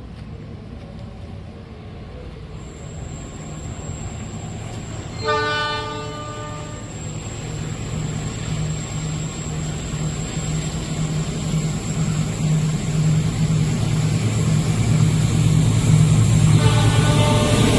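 A train approaching, its low diesel engine drone growing steadily louder, sounding its horn in a blast of about a second and a half about five seconds in and again near the end.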